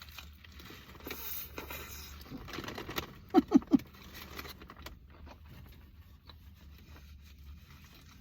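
Handling and eating a foil- and lettuce-wrapped burger: rustling, crinkling and small clicks and smacks from the wrapper and mouth. About three and a half seconds in come three short vocal sounds, each falling in pitch, the loudest part. A steady low hum runs underneath.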